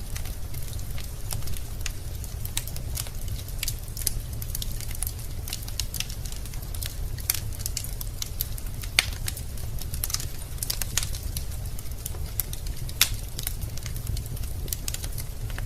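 Wood fire burning in a fireplace: a steady low rumble of the flames with irregular sharp crackles and pops from the burning logs, two of them louder about nine and thirteen seconds in.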